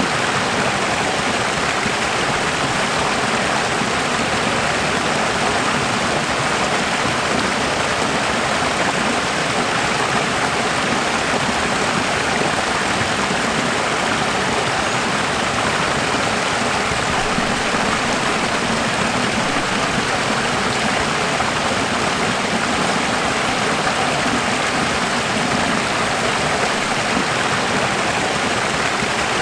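Running water, a steady unbroken rush like a stream, with no change in level.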